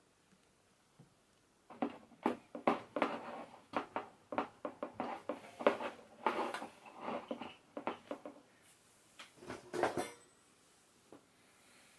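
Hard objects being handled: a quick, irregular run of knocks, clicks and clatters that starts about two seconds in and stops near the ten-second mark.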